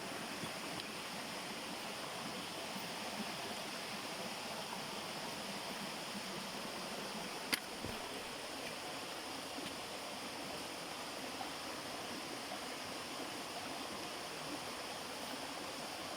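Steady rush of a mountain stream flowing over rocks, with a single sharp click about halfway through.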